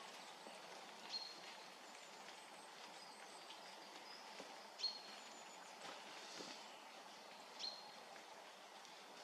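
Faint woodland ambience with a small bird giving short, sharp high calls about every three seconds, and fainter high calls between them.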